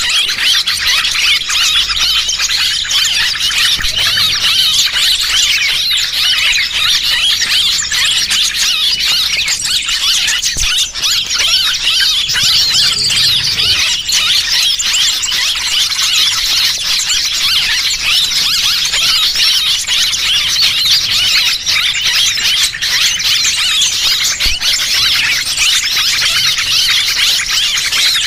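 Dense, continuous chorus of many small birds chirping and squealing shrilly over one another: a bird-lure call track used to draw small birds in for trapping.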